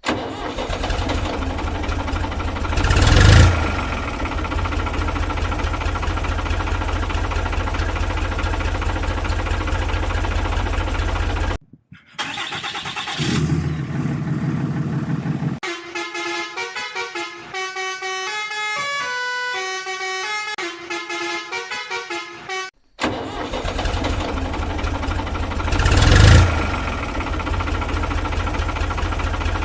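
Heavy truck engine running with a loud horn blast about three seconds in. Partway through it stops for a short melody of stepping single notes. Then the engine sound and the horn blast come back.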